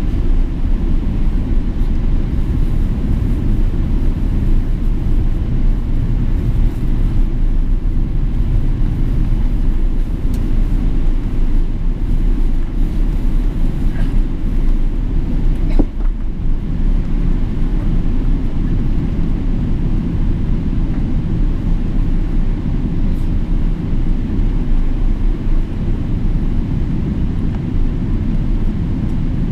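Steady low rumble from a Boeing 777-300ER with its GE90 engines running, with a couple of faint clicks near the middle.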